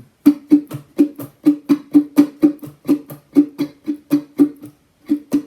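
Ukulele strummed in a chunking pattern: a down and up strum, then a percussive muted stop from the heel of the hand, repeated at a brisk, even rhythm of about four strokes a second on a D major chord.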